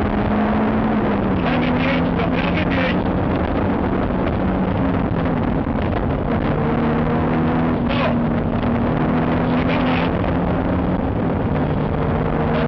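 In-cabin sound of a BMW 318is rally car's four-cylinder engine running under way. The engine note holds steady, then drops in pitch about a second in and shifts up and down several more times, over constant road and wind noise.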